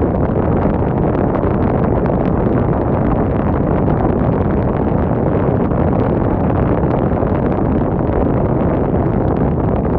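Wind blowing hard across the microphone: a loud, steady rush of noise, heaviest in the low end.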